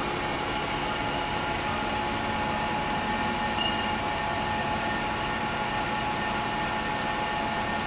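ACRA 1118EVS CNC toolroom lathe running steadily, a constant machine hum with a steady whine.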